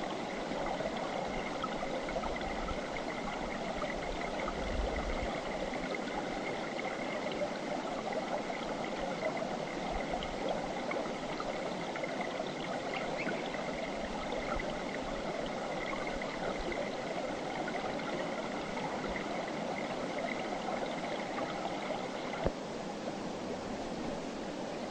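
Mountain river flowing over rocks: a steady rushing and burbling of water. About 22 seconds in there is a sharp click, and a faint high steady note in the background stops.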